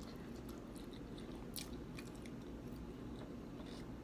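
A person chewing food close to the microphone: faint wet mouth clicks and small crunches, with one sharper click about a second and a half in.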